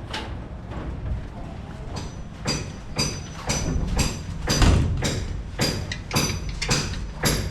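Hammer striking nails, about two blows a second, starting about two seconds in, each blow with a faint metallic ring.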